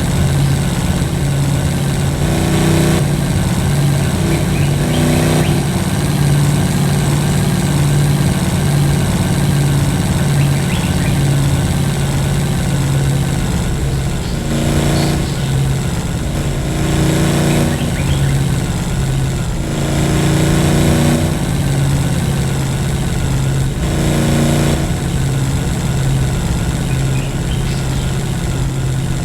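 Motor vehicle engine running steadily under load, with a short rise in pitch every few seconds as it is revved.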